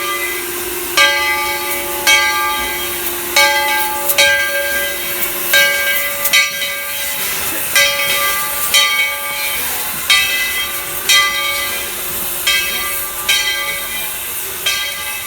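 Steam locomotive bell ringing steadily, about one clang a second, over the hiss of escaping steam.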